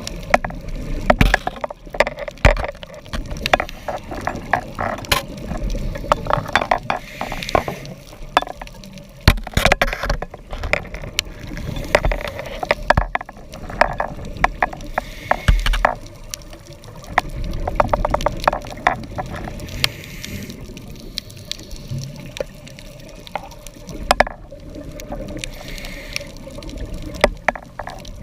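Underwater sound of scuba diving: the diver's regulator breathing, with a hissing rush of exhaled bubbles every several seconds, among many sharp clicks and crackles.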